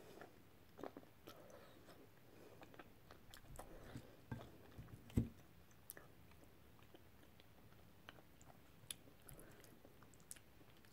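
A person chewing food, with faint scattered clicks of a knife and fork against a plate and one louder thump about five seconds in.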